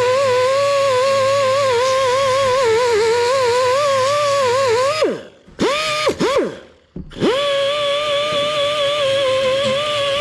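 Handheld power grinder working the rough factory spot welds on steel sheet metal, a high whine that wavers as the wheel bites in. About halfway through it is let off and winds down, is blipped back up a few times, then runs steadily again before winding down at the end.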